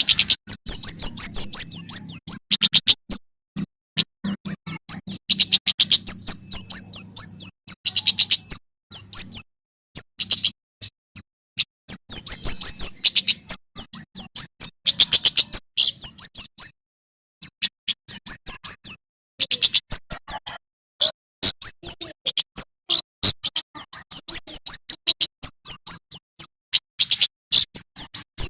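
Male prenjak keres (kemade) singing. The song comes in rapid runs of sharp, high, down-slurred chirps, several a second, broken by short pauses.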